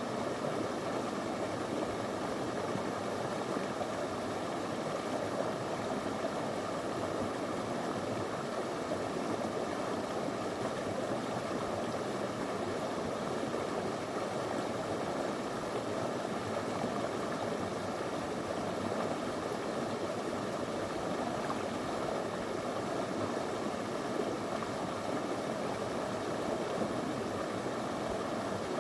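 Small shallow river flowing over stones, a steady even rush of water.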